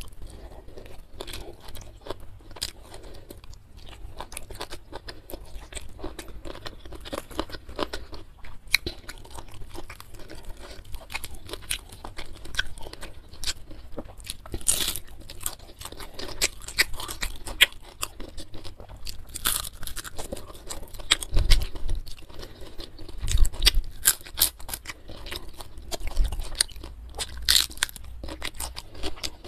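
Close-miked chewing and crunching of fried carp and stir-fried water spinach, with irregular crackles and wet mouth sounds, louder in the second half.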